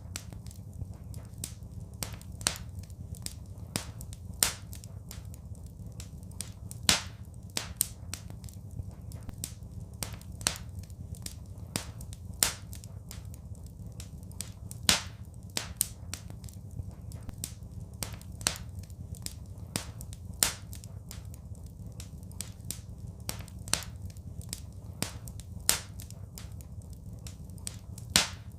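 Wood fire crackling: irregular sharp pops and snaps, a few every couple of seconds, over a steady low rumble.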